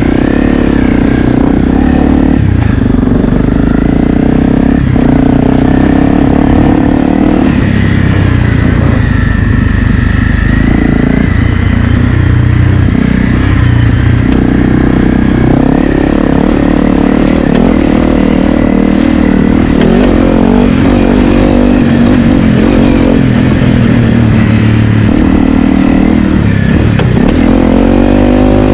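Honda CRF250L's single-cylinder four-stroke engine running, its revs rising and falling over and over.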